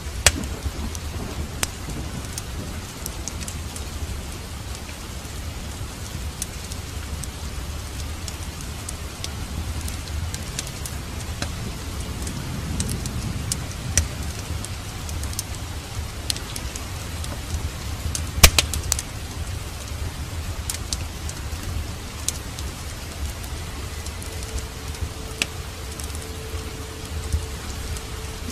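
Rain falling steadily with a fireplace fire crackling, sharp pops scattered throughout and one loud crack about eighteen seconds in; a low rumble runs underneath.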